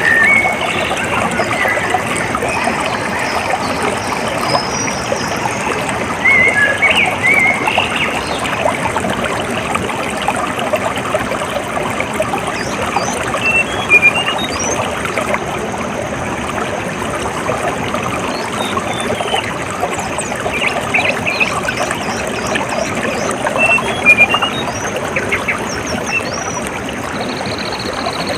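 Flowing water trickling and splashing steadily, with short bird chirps scattered throughout.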